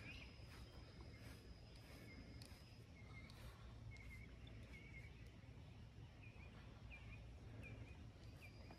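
Near silence, with faint small bird chirps repeating about every half second from about two seconds in, and a faint steady high-pitched tone that stops about three seconds in and comes back near the end.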